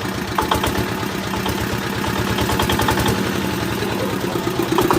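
Rebuilt R180 single-cylinder diesel engine of a walk-behind tractor running steadily at idle with an even rhythmic beat, running softly after its full overhaul.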